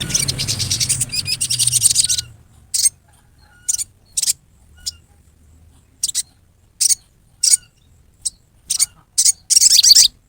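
Sogon bird giving harsh, rough calls. It opens with a dense rasping rattle lasting about two seconds, then gives a string of short, sharp notes spaced irregularly, and ends with a longer loud burst. These are the coarse 'riwikan' calls of an agitated bird.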